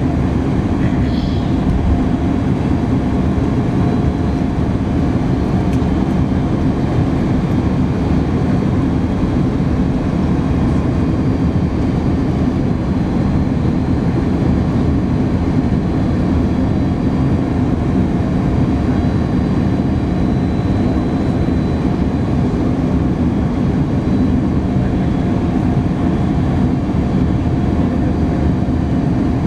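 Steady cabin noise inside an Airbus A310-300 in flight: a constant low rush of jet engines and airflow past the fuselage, with a faint steady hum.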